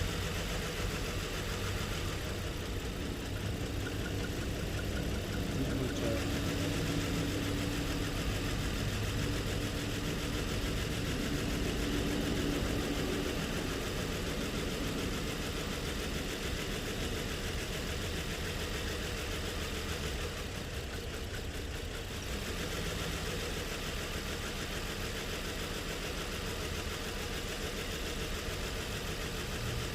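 Nissan car engine idling steadily, running for a misfire check with a scan tool.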